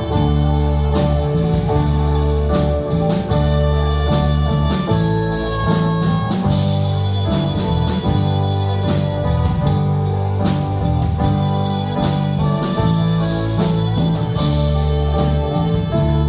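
Live worship band playing an instrumental passage: sustained keyboard chords over bass, with guitar and a steady drum beat.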